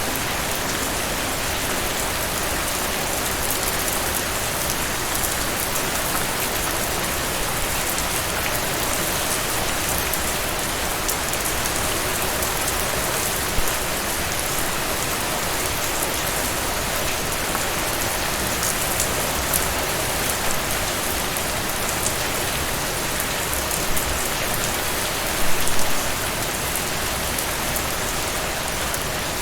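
Heavy rain falling steadily, a dense even hiss of drops, with a few louder single drops or splashes standing out, most of all about 25 seconds in.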